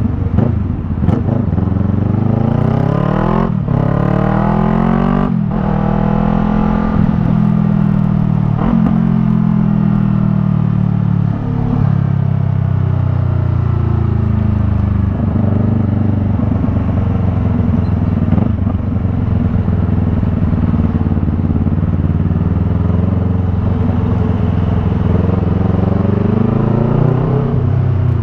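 Yamaha MT-03's parallel-twin engine breathing through a Jeskap R3 Cup aftermarket exhaust while ridden: the revs climb hard through two quick upshifts in the first few seconds, then the engine note falls slowly over many seconds and rises again near the end.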